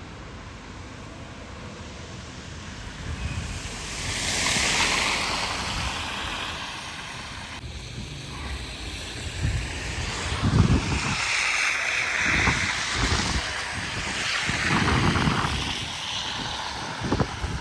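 Blizzard wind blowing in gusts, buffeting the microphone. The wind swells about four seconds in, then gusts repeatedly through the second half.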